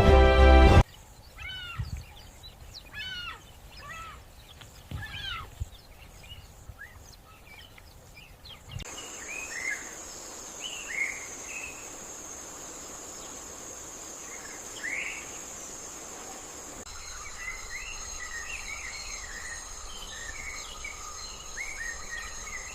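Wild birds calling in short rising-and-falling chirps, joined about nine seconds in by a steady high-pitched insect drone; from about seventeen seconds the chirping thickens, with several birds calling at once.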